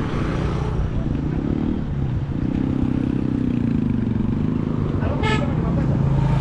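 A motor vehicle engine running steadily, with a longer pitched tone over it from about two seconds in and a brief sharp call near the end.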